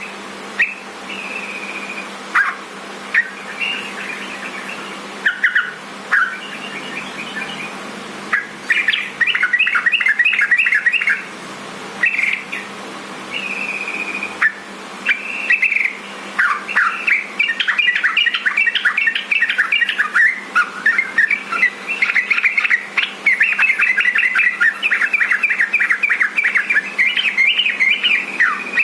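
Sooty-headed bulbul (trucukan) song: bubbly, chattering phrases of quick notes, scattered at first and coming almost without pause in the second half.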